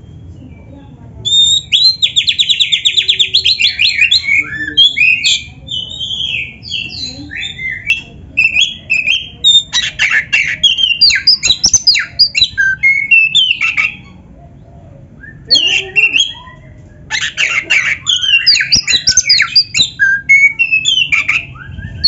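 Oriental magpie-robin (black-breasted kacer) singing a loud, varied song of quick whistled phrases and rapid trills, mixed with canary-like passages. It starts about a second in and pauses briefly about two-thirds of the way through.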